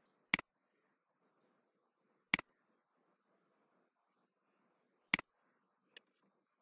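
Computer mouse button clicking three times, two to three seconds apart, each a sharp press-and-release double click, with a faint tick near the end.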